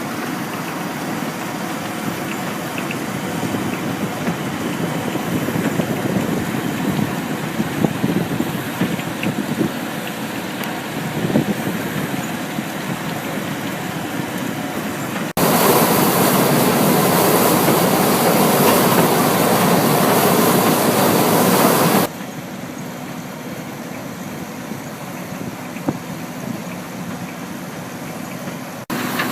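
Trommel screen running steadily, a constant machine noise. It jumps abruptly louder and harsher partway through, holds for about six seconds, then drops back just as suddenly.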